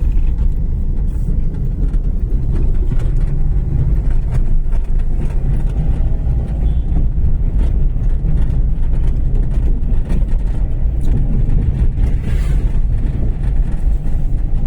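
Car on the move: a steady, loud low rumble of engine, tyre and wind noise.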